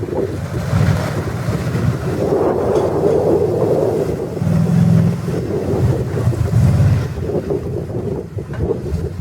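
4x4 off-road truck engine running and revving in surges, getting louder twice in the middle, with wind and rain noise on the microphone.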